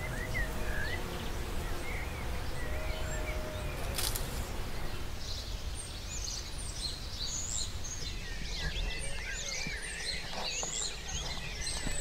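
Outdoor spring ambience: wild birds chirping over a steady low rumble. A few scattered calls come early on, and from about five seconds in the birdsong turns busy, with many birds calling at once.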